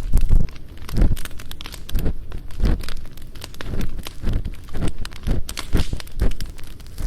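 Ear-cleaning sounds close in a binaural microphone's ear: an ear pick scraping and rubbing in repeated strokes, roughly one or two a second, over the steady crackle of a campfire.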